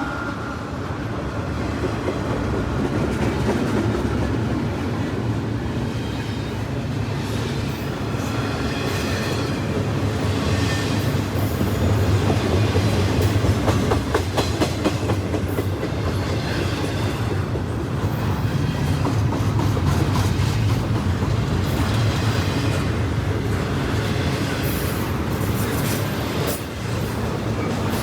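CSX freight train cars rolling steadily past, with a constant rumble and repeated wheel clicks over the rail joints.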